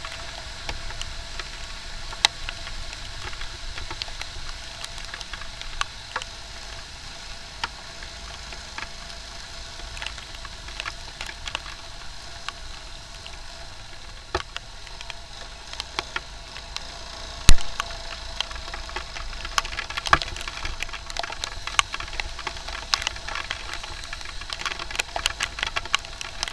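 Rain on a moving motorcycle ride: many irregular sharp clicks of raindrops striking the microphone over a steady hiss of wind and road noise, with one loud knock about 17 seconds in.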